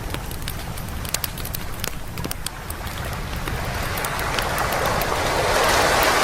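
Campfire crackling with scattered sharp pops over a steady low rumble of surf, while a wave swells in, growing louder for a few seconds and peaking near the end as it washes up the beach.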